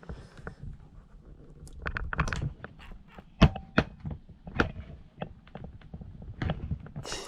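Irregular sharp plastic clicks and knocks, a few louder ones in the middle, as a door pull handle is worked loose from a car door trim panel.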